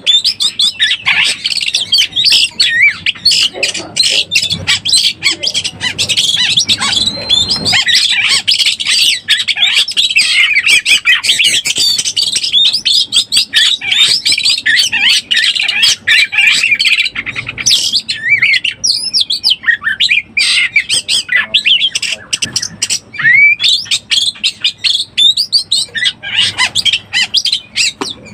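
Oriental magpie-robin (kacer) in breeding condition singing fast: a dense run of high chirps, short whistled glides and harsh notes, breaking into more scattered phrases a little past the halfway point.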